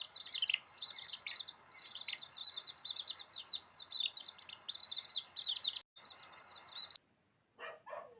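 Small birds chirping in a rapid, continuous stream of short high calls that stops abruptly about seven seconds in. Two brief, lower-pitched calls follow near the end.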